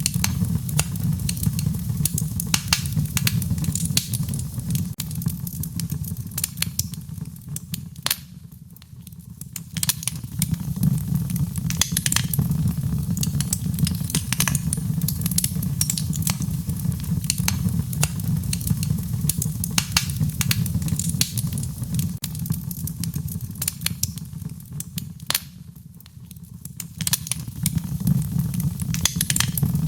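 Wood fire burning in a fireplace: a steady low rumble of flames with frequent sharp crackles and pops from the burning logs. It quietens briefly twice, about eight seconds in and again near twenty-five seconds.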